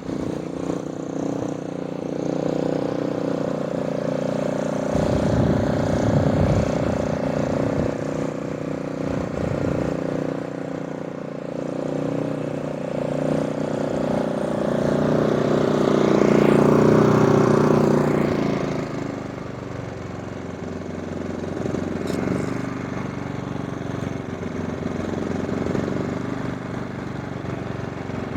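Champion 5500W inverter generator's 224cc single-cylinder engine running steadily at full speed, out of eco mode. The level swells and eases, loudest about two-thirds of the way through.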